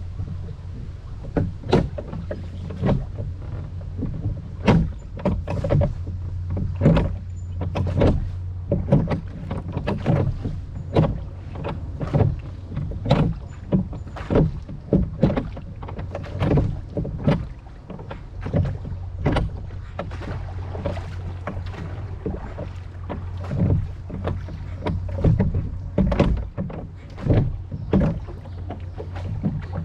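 Rowboat being rowed: oars dipping and splashing in the water with irregular knocks and splashes, roughly one to two a second, over a steady low rumble.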